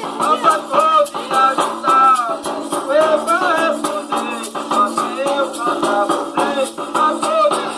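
Coco de roda music: voices singing a melody over a steady shaker rhythm.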